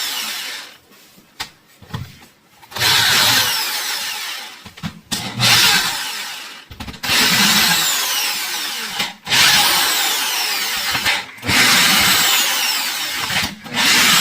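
Electric drill run in about six short bursts of a second or two each, the motor's pitch falling within each burst, as it is used to take the screws out of a drill's housing.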